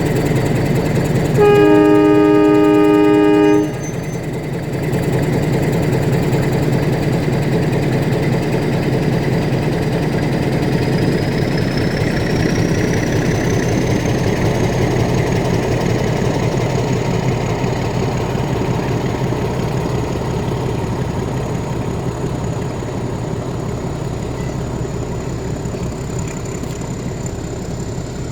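Metre-gauge diesel train's locomotive sounding one horn blast of about two seconds, a chord of low tones, over the steady noise of the train running. A faint high whine rises in pitch about halfway through and then holds.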